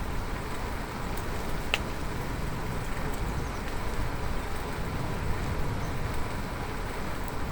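Steady low rumble of wind on the microphone and road noise from riding a bicycle, with a few faint ticks and one brief high chirp about two seconds in.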